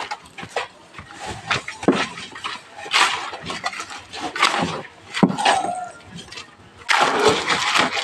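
Irregular knocks, metal clinks and scraping from hand tools at work on a building site, with a longer rasping scrape near the end.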